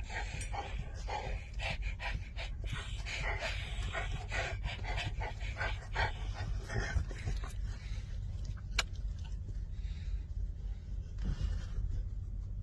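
A dog panting in quick, rhythmic breaths, heaviest over the first seven seconds, then tailing off.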